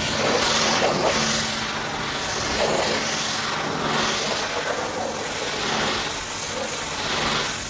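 High-pressure washer jet spraying, a loud steady hiss that swells and eases as the spray sweeps back and forth, over a faint low hum.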